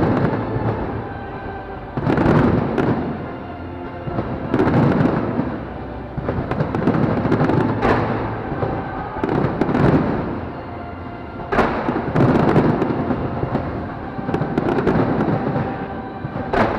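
Fireworks bursting in waves: sharp booms and crackling from aerial shells, coming about every two seconds and each dying away, with music playing underneath.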